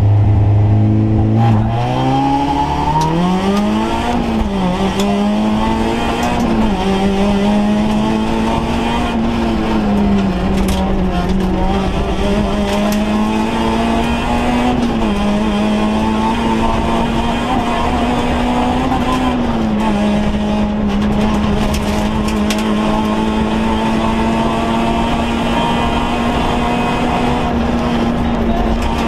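Rally car engine heard from inside the cabin: held at steady revs, then launching from standstill about a second and a half in and accelerating hard, its pitch climbing and dropping back several times as it changes gear, over steady road and cabin noise.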